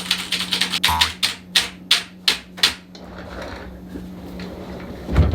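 A run of rapid sharp clicks, then about six heavier strikes at roughly three a second, ending about three seconds in. A low steady hum runs underneath, and a dull thump comes near the end.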